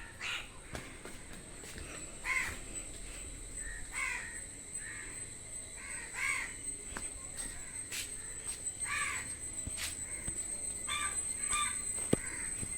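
Birds calling outdoors: a series of short, harsh calls repeated every second or two, over a faint steady high-pitched tone.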